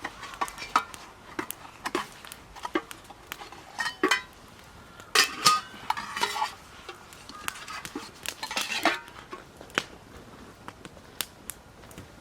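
Utensils and dishes being handled, clinking and knocking together in irregular bursts, busiest about five seconds in and again near nine seconds.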